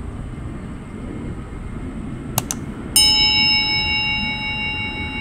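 Steady low rumble of distant jet aircraft noise. About two and a half seconds in come two quick clicks, then a single loud metallic chime, like a struck bell, that rings on and slowly fades.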